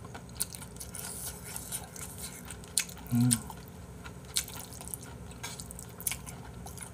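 Close-up wet chewing of spicy stir-fried octopus and pork belly: squishy mouth sounds and scattered sharp clicks. A short low vocal sound from the eater about three seconds in.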